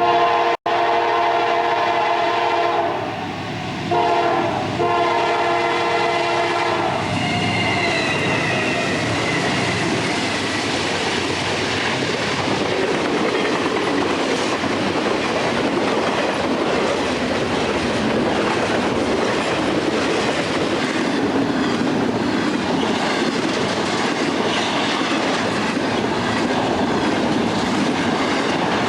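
Locomotive air horn sounding: a long blast, a short one, then another long blast. Its pitch drops around eight seconds in as it passes. Then comes the steady rumble and clatter of the train's wheels rolling over the rails.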